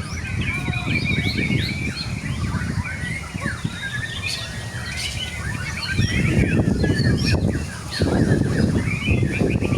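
White-rumped shama (murai batu) singing a fast, dense run of varied chirps and whistles among other songbirds. Low rumbling noise swells under the song about six seconds in and again near the end.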